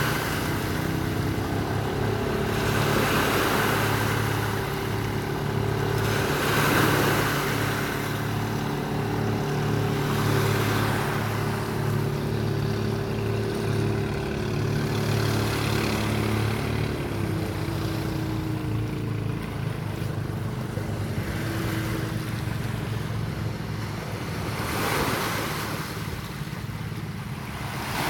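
Sea waves washing in, swelling every three to four seconds, over the steady hum of a motor that runs throughout and dips in pitch briefly about two-thirds of the way in.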